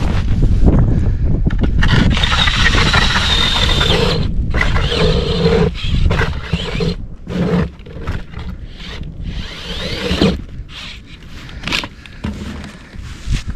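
Hand-turned ice auger cutting through river ice: a rasping, scraping grind of the blades, steady for the first half, then in shorter uneven strokes. Wind buffets the microphone throughout.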